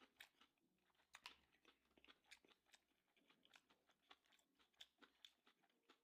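Faint chewing of a mouthful of tuna sushi close to the microphone: irregular wet mouth clicks, a few each second.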